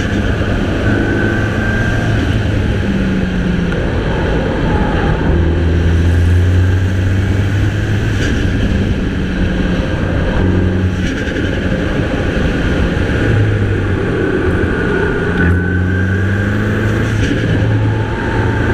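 Mini Cooper's 2.0-litre turbocharged four-cylinder engine driven hard on a winding road, its pitch climbing and dropping again and again with throttle and gear changes, with a turbo whistle over it that rises near the end.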